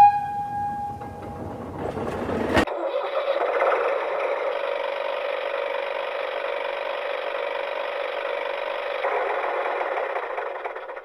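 A battery-powered toy's small electric motor whirring steadily, following a short pitched electronic tone that fades out in the first second or two; the whir starts suddenly after a cut and fades near the end.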